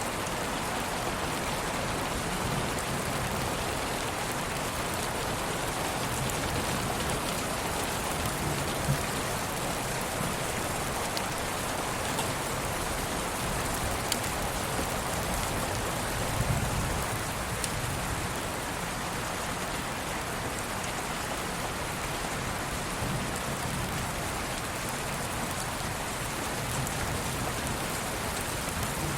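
Steady rain: an even hiss of rainfall with a few sharper drop ticks now and then.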